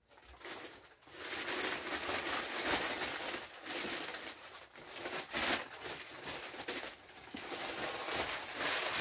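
Newspaper packing paper rustling and crumpling as it is handled and unwrapped, in an irregular run of crackles.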